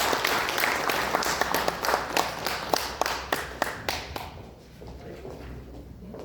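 Audience applauding with many hands clapping together. The applause dies away about four seconds in, leaving a few scattered claps.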